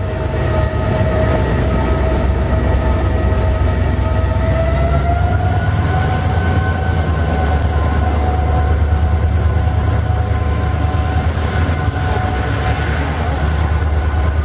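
Indian Railways passenger train's coaches rolling past along the platform: a steady low rumble with a high whine that rises in pitch between about four and six seconds in, then holds.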